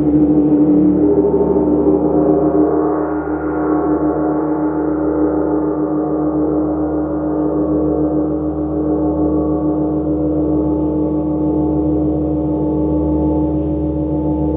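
Large gong resonating in a sustained wash of many overlapping tones, kept going by soft playing rather than sharp strikes, with a strong low hum and a shimmer whose upper tones slowly fade.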